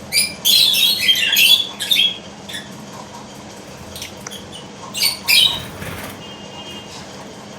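A flock of caged lovebirds calling with sharp, shrill chirps and squawks: a dense run of calls in the first two seconds, then scattered single calls, with two loud ones about five seconds in.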